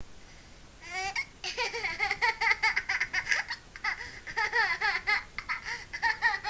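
A baby laughing in high-pitched, pulsing runs of giggles, starting about a second in.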